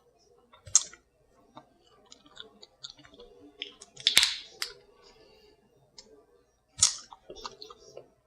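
Hard claw shell being worked by hand: scattered small clicks and crackles, with three louder sharp snaps, about a second in, just past the middle (the loudest) and near the end.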